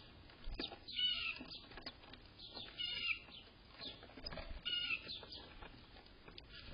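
A bird calling three times, about two seconds apart, each a short similar call, with faint rustling and clicks between.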